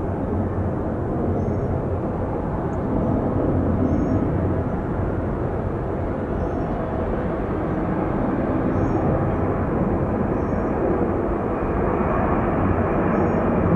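Airbus A330-300 jet airliner on approach, a steady low jet-engine rumble that grows louder toward the end.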